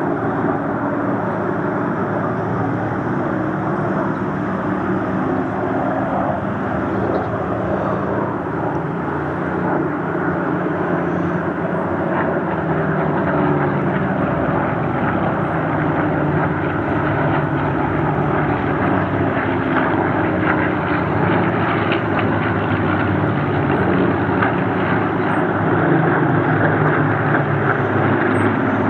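Several Supermarine Spitfires' V12 piston engines droning together in flight, with several engine notes overlapping and drifting in pitch. The sound gets a little louder near the end.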